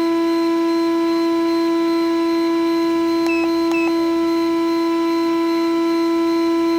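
A loud, steady electronic tone held at one pitch without a break, with two short faint chirps a little past the middle.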